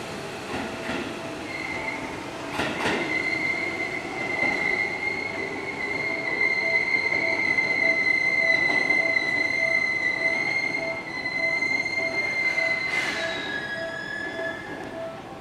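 Seibu 6000-series electric train pulling out and running away along the track, with a steady high-pitched squeal from its wheels that fades near the end. A lower tone beeps about twice a second through the second half.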